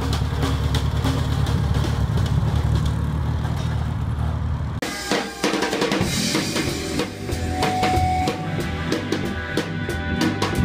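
Rock music with a prominent drum kit: bass drum, snare and cymbal hits in a steady beat. About five seconds in the sound changes abruptly to a different passage with held guitar-like notes over the drumming.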